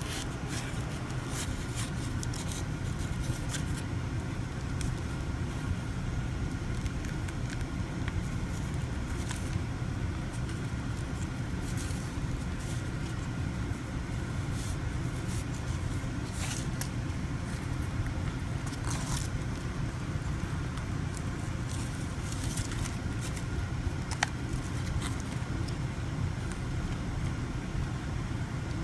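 Steady low background hum, with scattered faint scrapes and clicks as a set Hydrocal plaster casting is worked out of its mold.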